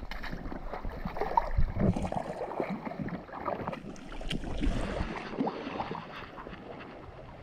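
Shallow creek water sloshing and gurgling, with wind rumbling on the microphone.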